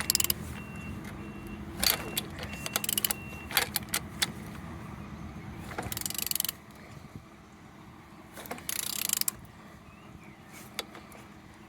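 A used engine being turned over by hand at the crankshaft, with quick runs of ratchet-like clicks and metal clinks in short bursts. Two longer noisy rushes come about six and nine seconds in.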